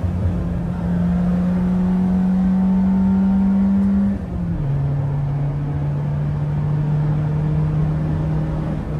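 Peugeot 206's straight-piped four-cylinder engine with an open cold-air intake pulling under acceleration, revs slowly climbing, then a quick upshift about four seconds in and pulling on at lower revs.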